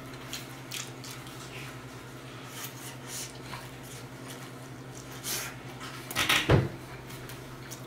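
Close-up mouth sounds of a man chewing a bite of cheesy pepperoni pizza, soft irregular smacks over a steady low hum, with a louder brief noise about six seconds in.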